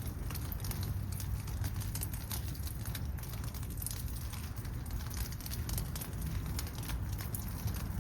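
Rain falling at night, the drops pattering in quick, irregular ticks over a steady low rumble.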